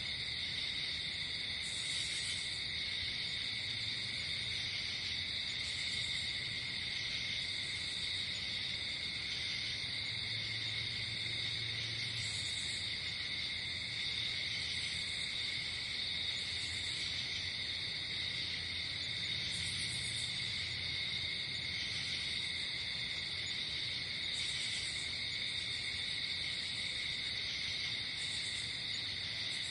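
Night insect chorus: crickets trilling without a break, with shorter, higher chirps breaking in every second or two.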